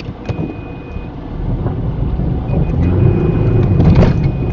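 A four-wheel-drive's engine revving under load as it labours through the river crossing, with the vehicle's steady high-pitched warning tone sounding briefly near the start and again from about halfway.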